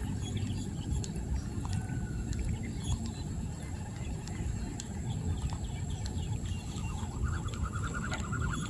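Rural outdoor ambience: a steady low rumble with scattered small clicks, and from about seven seconds in a rapid pulsing trill from a creature in the fields.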